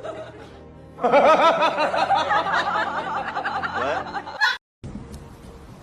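A high, laughter-like voice whose pitch wavers rapidly up and down for about three seconds, then cuts off suddenly.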